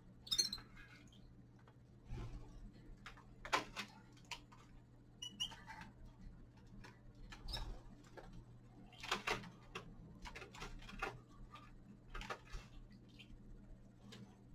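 Caged finches feeding and moving about: irregular small clicks and taps from pecking at seed and hopping on perches, with a few brief high chirps, over a steady low hum.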